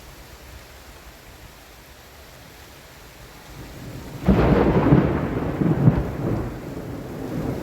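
Steady rain hiss, then a thunderclap about four seconds in that breaks suddenly into a loud, rolling rumble of thunder with several peaks, fading slowly.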